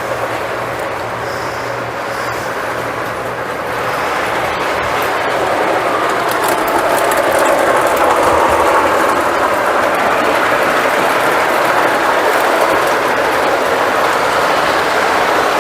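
Lionel model train running on the layout's track, a steady rolling rumble of wheels and motor that grows louder about four seconds in.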